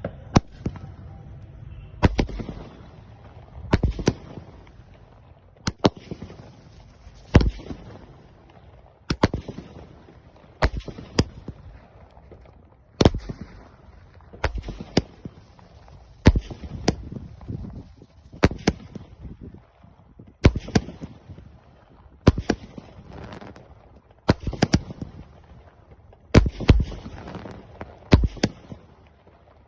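Aerial sky-shot fireworks going off: a series of sharp bangs about every two seconds, some in quick pairs, several followed by a short high crackle.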